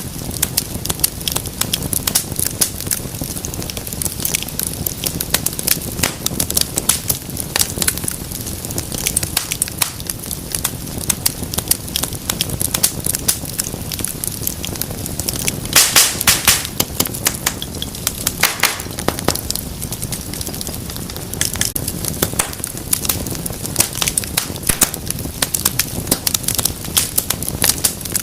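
Wood fire crackling with dense small snaps and pops over a low rumble of flames. About halfway through comes a burst of louder pops, and another a few seconds later.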